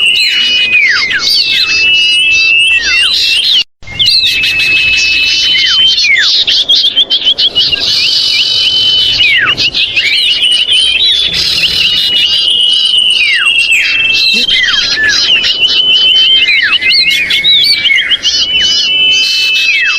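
Bird-lure recording of common iora (cipoh) calls: many overlapping calls, loud and agitated, with rapid trills and falling whistled notes. The calls break off suddenly for a moment about four seconds in, then resume.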